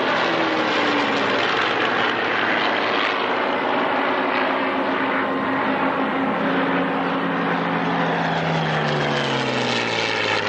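Piston-engined fighter aircraft flying a dogfight display overhead, their propeller engines running loudly. The engine note holds steady through the middle, then falls in pitch over the last couple of seconds as an aircraft passes and moves away.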